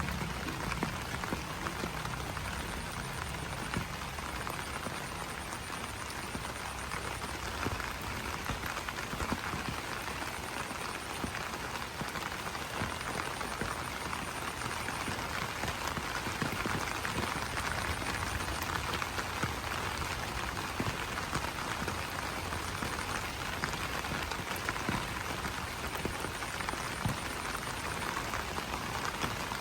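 Steady rain falling on broad banana leaves: a continuous hiss with countless small drop impacts. A faint, high pulsed trill comes and goes in the background.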